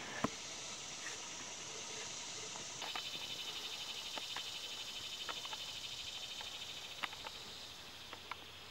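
An insect trilling in a fast, even pulse at a high pitch, starting about three seconds in over a steady outdoor hiss. A few sharp clicks, the loudest right at the start.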